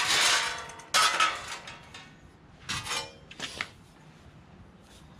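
Stainless-steel sheet parts of a homemade knock-down fire pit clanking against each other as they are handled, about four ringing metallic knocks in the first three and a half seconds.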